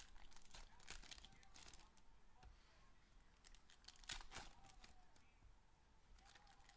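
Faint crinkling and tearing of trading-card packaging being handled and opened, in short irregular bouts, the loudest about four seconds in.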